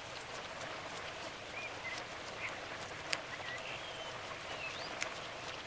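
Faint outdoor ambience: a steady hiss of light rain with occasional sharp drips, and a few short, faint bird chirps.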